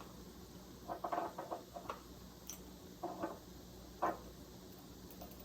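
A few faint, short clicks and taps of small kitchen items being handled, about once a second.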